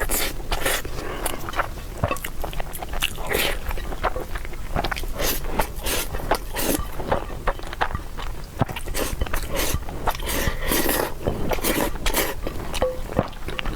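Close-up eating sounds of a person chewing and smacking their lips, irregular clicks several times a second.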